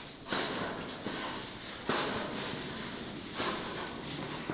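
Footsteps going down a steep flight of rusted metal stairs, a step roughly every second and a half.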